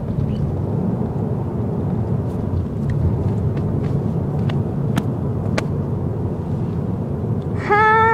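Steady low rumble like road noise in a moving car, with a few faint clicks. Near the end a child's loud, high, wavering meow-like cry starts.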